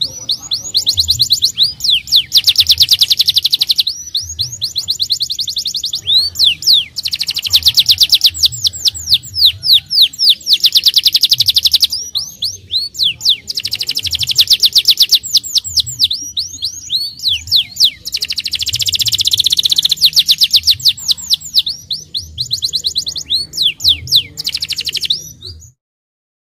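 Domestic canary singing in fast rolling trills of rapidly repeated sweeping notes. The trills come in phrases of a few seconds with short breaks between them, and the song stops abruptly near the end.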